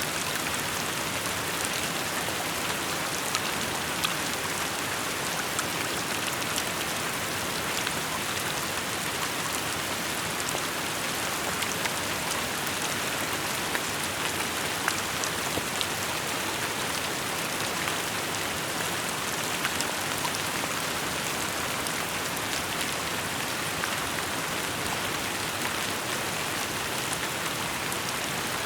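Steady rainfall pattering on surfaces, an even hiss with many small scattered drop ticks throughout.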